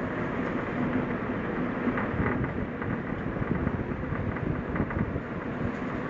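Suzuki Jimny driving on a forest road: steady engine and road noise, with scattered short knocks and rattles.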